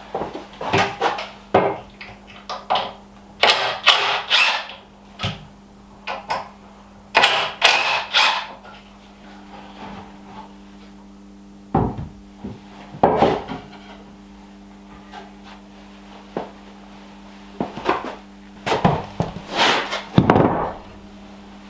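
Irregular knocks and clatters of wooden parts and tools being handled and set down in a workshop, over a faint steady hum.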